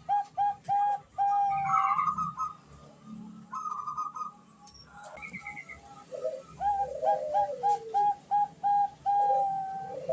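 Female zebra dove (Bangkok perkutut) cooing: a run of short, evenly spaced notes ending in a long held note and a trill. After a quieter gap, a second run starts about six seconds in, with lower falling notes beneath it.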